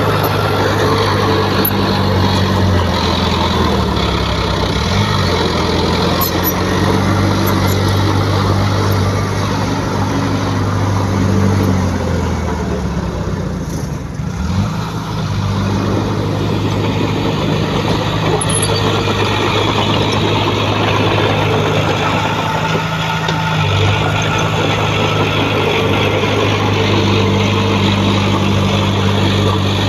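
Heavy diesel engine of earthmoving machinery running steadily under changing load. Its speed shifts a few times and drops briefly about halfway through.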